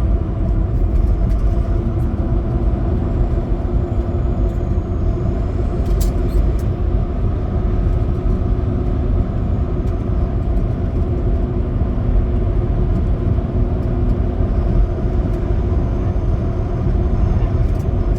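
Big rig semi truck driving: a steady low engine drone with road rumble and a constant hum, and a brief click about six seconds in.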